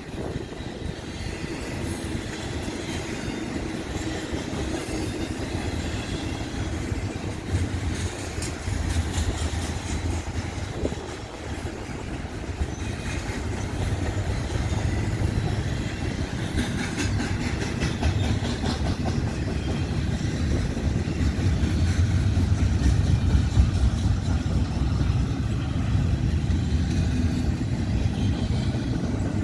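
Westbound Union Pacific train rolling past: steel wheels clatter over the rail joints in a steady stream of clicks over a deep rumble, getting somewhat louder in the second half.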